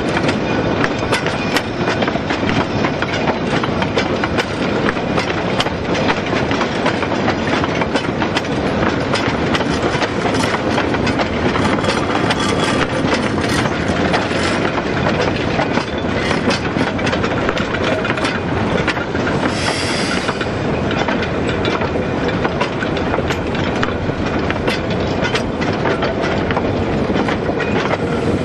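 Narrow-gauge train rolling slowly, a steady rumble with dense clicking of wheels over rail joints, heard from aboard. About two-thirds of the way through a brief high-pitched squeal or hiss rises over it for about a second.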